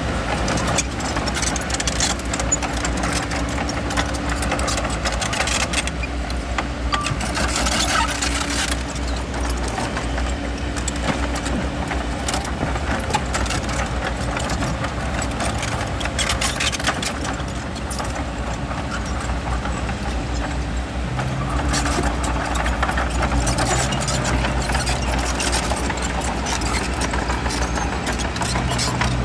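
Bulldozer's diesel engine running steadily under load, with stretches of rattling and clatter from the tracks and the stone being pushed.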